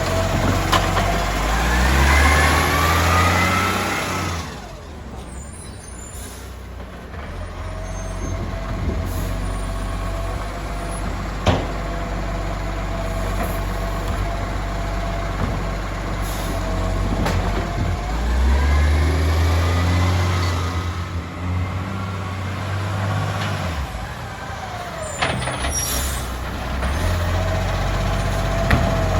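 Euro 5 garbage truck's diesel engine running, revving up twice with quieter idling in between. A short air-brake hiss comes near the end.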